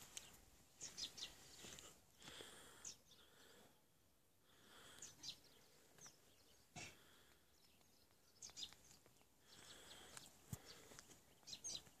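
Quiet outdoor ambience with small birds chirping now and then in short, high calls. There are a couple of soft knocks, about seven and ten seconds in.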